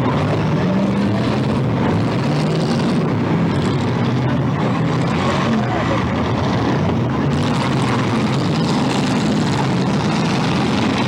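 Several demolition derby cars' engines running and revving together: a loud, steady din of overlapping engine notes that waver in pitch.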